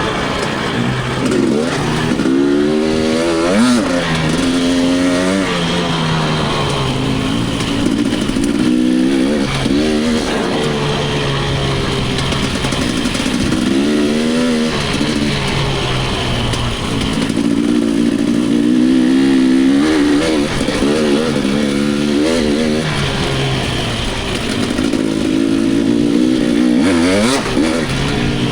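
Dirt bike engine being ridden, its pitch climbing and dropping over and over as the rider opens and closes the throttle and shifts gears.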